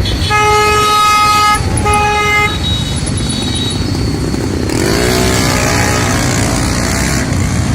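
A vehicle horn honks twice, a long toot and then a shorter one, over steady road and wind noise from riding in traffic.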